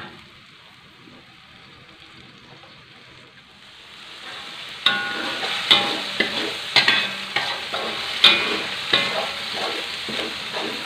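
Blended spice paste frying in hot oil in a metal wok, only a quiet sizzle for the first few seconds. From about five seconds in, a metal spatula scrapes and clacks irregularly against the wok over a louder sizzle as the paste is stirred and cooked down until fragrant.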